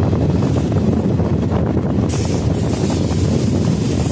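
Passenger train running at speed, heard from an open coach door: a steady rumble and rattle of wheels on the rails with wind buffeting the microphone, and a short burst of hiss about two seconds in.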